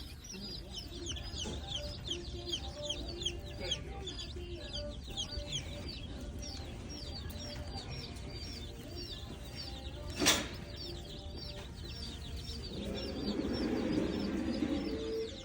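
Baby birds cheeping: a fast run of short high chirps, several a second, thinning out about two thirds through. A single sharp knock about ten seconds in, and a louder rustling noise near the end.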